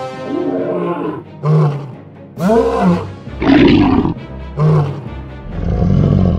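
A series of wild-animal roars, lion-like, about one a second, over background music.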